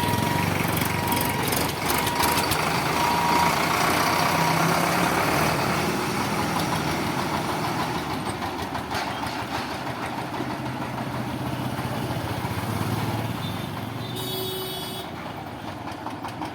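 Loud vehicle noise, loudest in the first few seconds and slowly fading, with an on-and-off high beeping tone over the first four seconds and a short sharp horn-like tone about fourteen seconds in.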